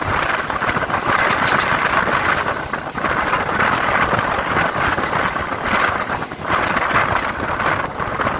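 Steady rushing noise of an electric multiple unit (EMU) local train running along the line, heard from on board through the open side of the coach. It dips briefly about three seconds in and again past six seconds.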